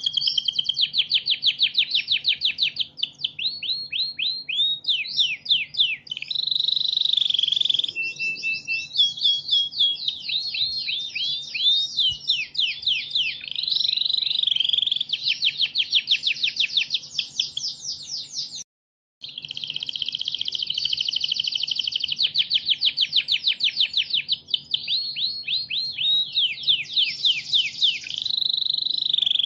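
Domestic canary singing a long, continuous song of fast trills and rolling phrases, high-pitched and varied. It breaks off completely for about half a second roughly two-thirds of the way through.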